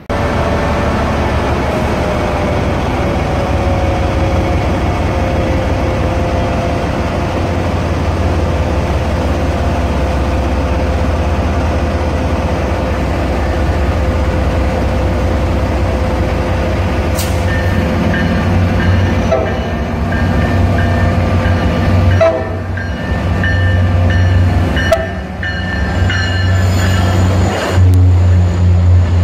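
MBTA commuter rail diesel locomotive and bilevel coaches arriving at the platform: a steady low engine rumble with a long drawn-out whine that sinks slightly in pitch, then short high squeals in the last third as the train slows alongside.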